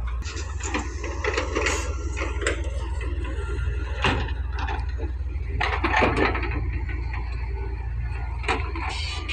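Doosan wheeled excavator at work: its engine runs steadily underneath, with irregular creaks, knocks and scraping from the boom and bucket.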